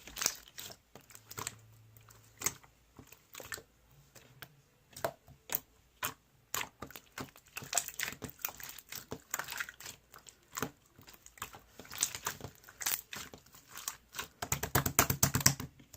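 Clear slime being squished and pulled by hand, giving irregular sharp clicks and pops from air pockets, with a fast run of clicks near the end.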